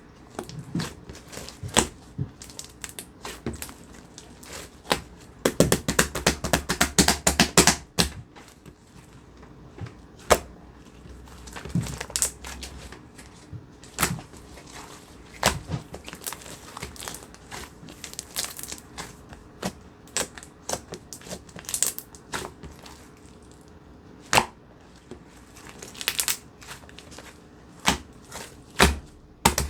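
Handmade slime being squished and poked by hand, giving irregular sticky clicks and pops. There is a dense, quick run of them about six to eight seconds in.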